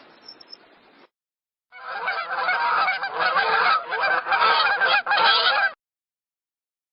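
A flock of geese honking, many calls overlapping densely for about four seconds and then stopping abruptly. Before it, a faint hiss is cut off by a short silence.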